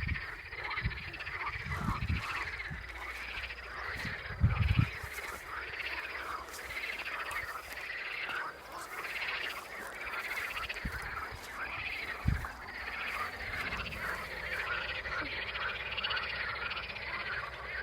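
A chorus of many frogs croaking continuously, overlapping calls repeating all through. A few low thumps come through as well, the loudest about four and a half seconds in.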